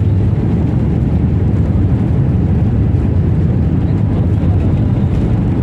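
Loud, steady low rumble of engine and airflow noise inside the cabin of a Boeing 737-8200 airliner. It cuts off abruptly at the very end.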